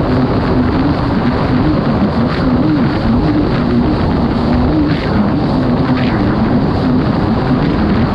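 Kawasaki STX 160 jet ski's four-stroke four-cylinder engine running hard under way, its pitch wavering up and down with the throttle, over a steady rush of wind and water.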